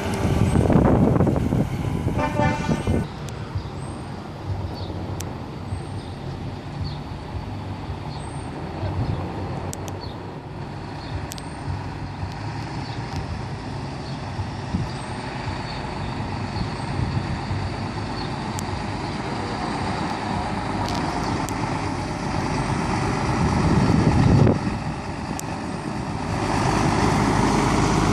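Diesel lorries driving past with their engines running, one passing loudly about a second in and another around twenty-four seconds. A truck horn sounds briefly about two seconds in, a pitched blast with a fast pulsing flutter, and the engine noise rises again near the end as another truck approaches.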